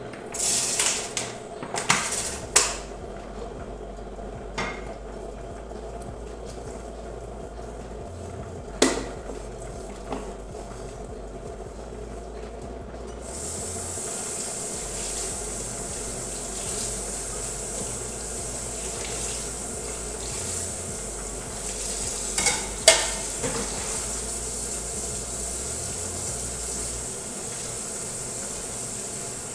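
Dishes, pots and cutlery clattering as they are handled, with a few sharp knocks. About halfway through, a steady hiss starts and keeps on.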